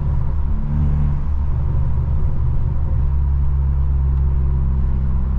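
Straight-piped BMW F30 exhaust droning steadily at a constant cruise, heard from inside the cabin, over a low tyre and road rumble.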